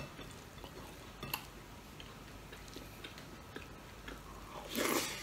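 Close-up eating sounds: quiet chewing and small mouth clicks as a man eats rice with his hand, with a louder short mouth noise near the end as he takes a handful of rice into his mouth.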